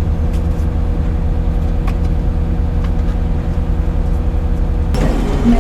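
Excavator's diesel engine running at a steady speed, with a few faint ticks over it; the sound changes near the end.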